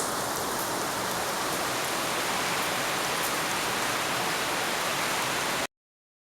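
Heavy rain falling with a steady hiss, with a single sharp click at the start; the sound cuts off suddenly near the end.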